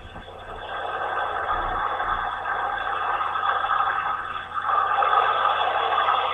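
WashWorld Razor touchless car wash spraying water jets onto the car, heard from inside the car as a steady hiss and drumming. It swells louder near the end, then cuts off suddenly.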